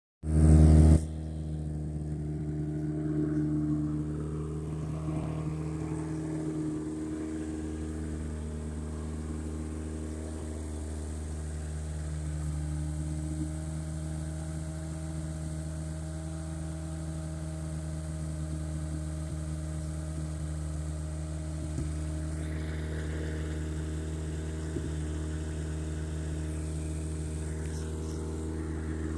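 1978 Honda Civic's four-cylinder engine idling steadily, after a short loud burst in the first second.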